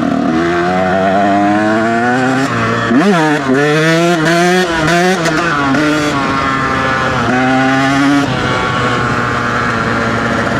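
Dirt bike engine under throttle, its pitch climbing for a couple of seconds and dropping sharply at a shift. Quick throttle blips follow, rising and falling in the middle, then another climb and a steadier run near the end.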